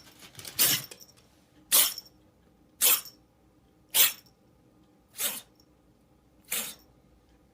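A pet animal making six short, breathy, cough-like huffs, about one a second.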